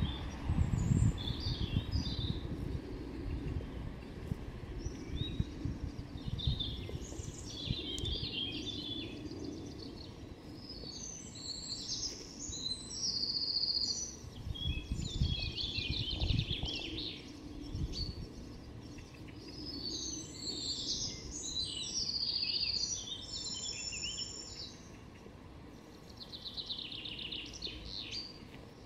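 Songbirds chirping and trilling in many short phrases, with low rumbles and thuds in the first few seconds and again about sixteen seconds in.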